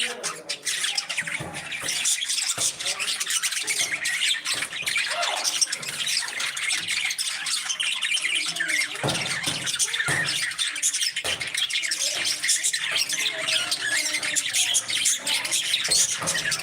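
A flock of parrots chattering and squawking without pause, many high calls overlapping.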